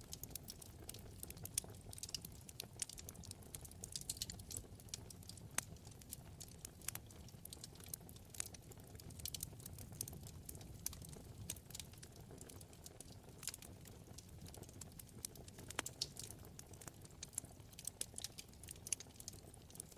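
Wood fire in a fireplace crackling: irregular sharp pops and snaps, several a second with a few louder ones, over a low steady rumble of the flames.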